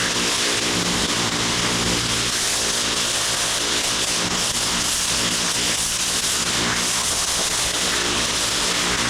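Gas-engine pressure washer running steadily under the constant hiss of its high-pressure water spray on paving.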